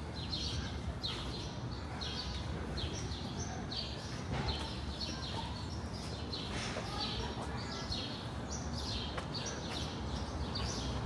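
Small birds chirping steadily, a run of short high chirps about two a second, over the low hum of city traffic.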